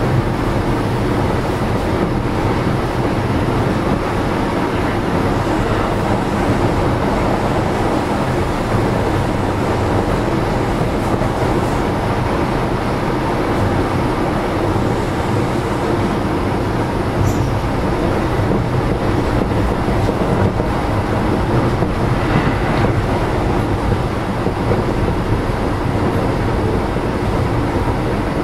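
Keio 7000 series electric train running, heard from inside car 7029: a steady rumble of the wheels on the rails and the running gear under way, with a few faint clicks.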